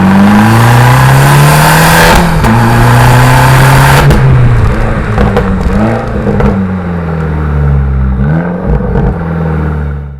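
Abarth 595's 1.4-litre turbo four-cylinder, through its Record Monza exhaust, running loud under hard acceleration at high revs. About four seconds in the throttle comes off and the engine note falls away slowly as the car slows, with two brief rev blips before it fades.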